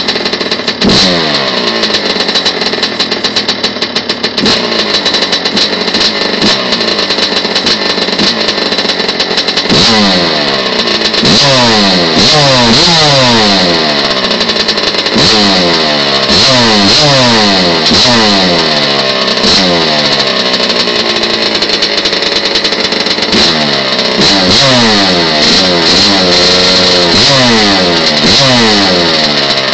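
Kawasaki KX100 two-stroke dirt bike engine, fitted with an FMF exhaust, warming up after a cold start. For the first several seconds it idles unevenly with crackling pops and an occasional rev. From about ten seconds in, the throttle is blipped over and over, each rev rising and then falling back, roughly every one to two seconds.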